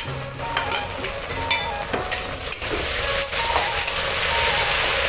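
Pork frying in hot oil in a steel wok, sizzling steadily, with a metal spoon clicking against a plate as spices are scraped off in the first couple of seconds. The sizzle grows louder from about three seconds in as the spoon stirs in the wok.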